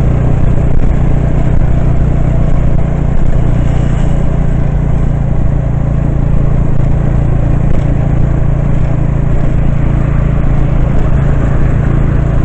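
Steady engine and road noise of a moving vehicle, running evenly without a break.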